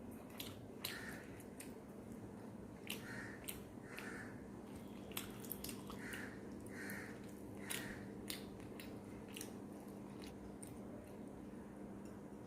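Eating close to the microphone: chewing, with frequent irregular wet mouth clicks and smacks. A faint steady hum runs underneath.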